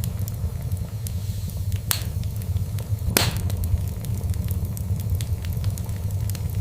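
Fireplace fire burning with a steady low rumble and frequent small crackles, and two louder pops about two and three seconds in, the second the loudest.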